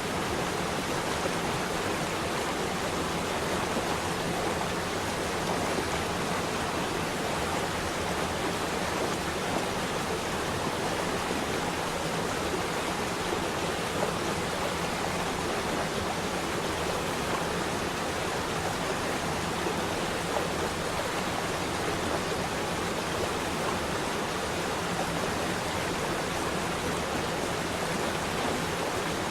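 Running water flowing with a steady, even rush and no breaks.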